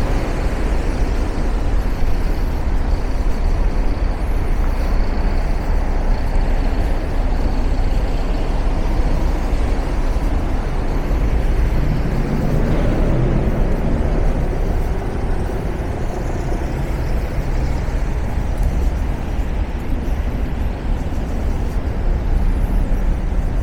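City avenue traffic: a steady rumble of cars and buses going by, with one louder vehicle passing close about halfway through.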